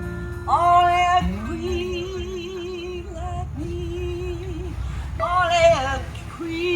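Live blues music with a woman singing long wordless notes that swoop up in pitch, twice, about half a second and five seconds in, over a held lower note with vibrato.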